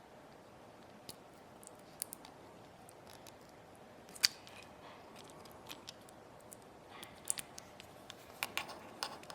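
Scattered small clicks and taps of hand tools working on an iPod nano 6th generation's tiny parts, the sharpest about four seconds in and a quick run of clicks near the end, over a faint steady hiss.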